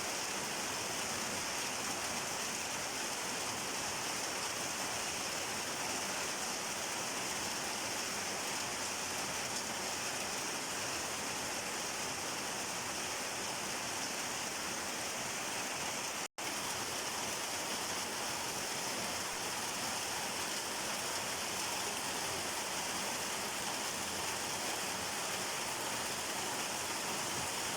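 Steady rainfall, an even hiss of rain with no let-up, broken only by a split-second gap about halfway through.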